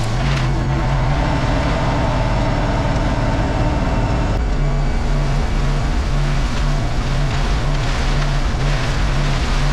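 LS MT357 tractor's diesel engine running steadily under load.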